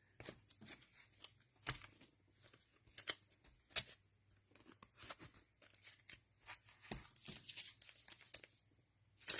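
Faint, scattered crinkling and rustling from trading cards and their cellophane pack wrappers being handled, in short separate bursts.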